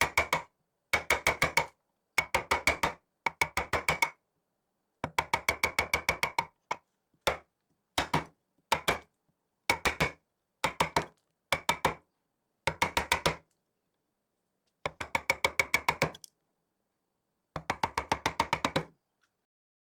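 A carved wooden percussion piece being struck in short bursts of rapid taps, about seven or eight a second, each tap ringing with a clear wooden pitch. The bursts are separated by brief pauses and stop about a second before the end.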